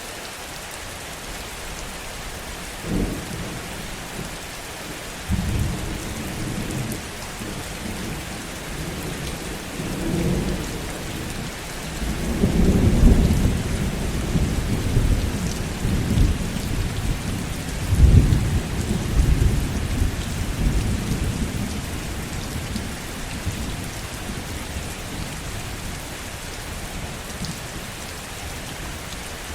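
Heavy rain falling steadily, with a long roll of thunder. The first rumble comes about three seconds in, it builds to its loudest rumbles in the middle with a sharp peak, then fades away well before the end, leaving only the rain.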